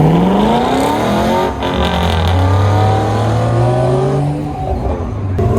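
A car engine revving hard as the car accelerates away, its pitch climbing, breaking off at a gear change about a second and a half in, then climbing again through a second gear before easing off near the end.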